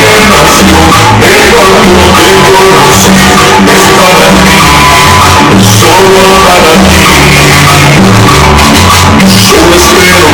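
Very loud dance music played through a sonidero sound system, with a heavy bass line changing notes about twice a second and a voice over it.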